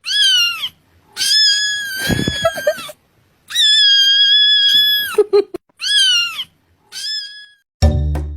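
A domestic cat meowing five times: a short falling meow, two long drawn-out meows, then two short ones, the last fainter.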